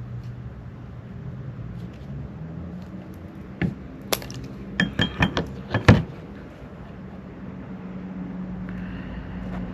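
Scissors snipping through thin wire: a quick run of about seven sharp clicks between about three and a half and six seconds in.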